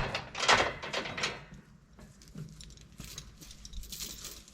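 Metal chain links clinking and rattling as rigging is handled: a few quick rattles in the first second and a half, then fainter handling noises.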